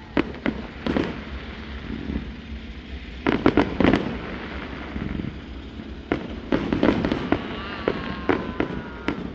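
Fireworks going off: a series of sharp bangs and cracks, with a dense burst of them about three seconds in and scattered bangs after.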